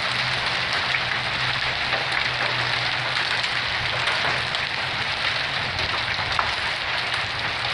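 Pea- and marble-sized hail pouring down hard: a dense, steady clatter of hailstones with many separate sharp ticks, over a low steady hum.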